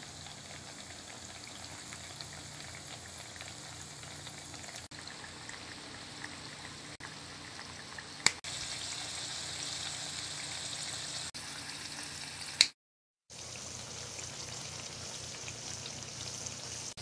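Battered breadfruit slices deep-frying in a pan of hot oil, a steady bubbling sizzle. It is broken by a couple of sharp clicks and a brief dropout about three-quarters of the way in.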